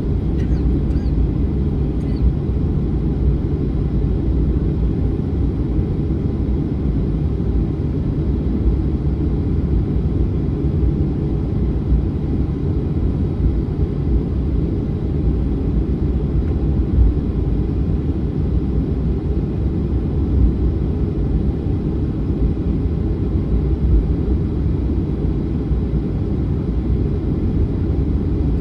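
Boeing 737-900 jet engines (CFM56-7B turbofans) running with a steady low rumble.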